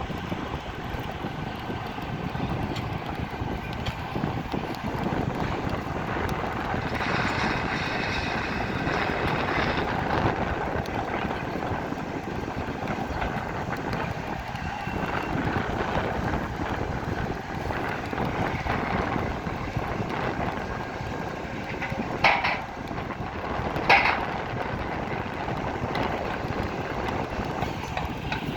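Steady rumble of machinery on a construction site with wind on the microphone, and two sharp knocks about a second and a half apart, some three quarters of the way through.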